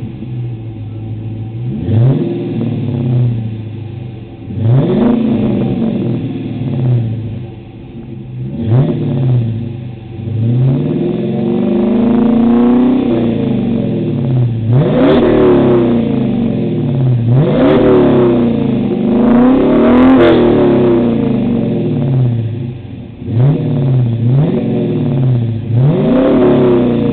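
2013 Dodge Challenger R/T's 5.7-litre HEMI V8 exhaling through a Flowmaster 40 Series dual-in/dual-out muffler with 2.5-inch tailpipes. It idles and is revved about ten times, mostly quick blips with a few held longer, each time dropping back to idle.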